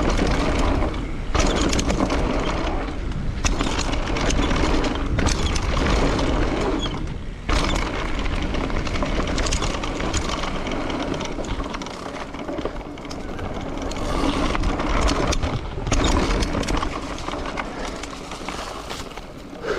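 Wind rushing over the microphone with a heavy low rumble, rising and falling in gusts, with the noise of moving along a road.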